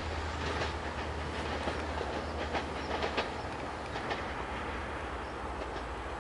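Train rolling past, wheels clicking and knocking over the rail joints over a steady low hum. It grows a little quieter toward the end.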